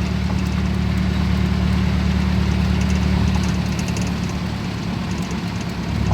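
Steady engine drone and road noise of a car on the move, easing slightly about four seconds in and rising again near the end.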